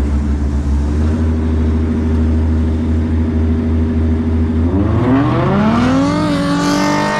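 A car engine runs steadily at low revs, then revs up about five seconds in, its pitch climbing for a couple of seconds before holding at a higher, steady note.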